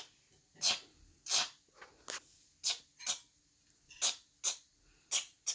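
About nine short, breathy hisses, spaced unevenly: a child puffing and hissing through the mouth as sound effects for a toy boat's engine.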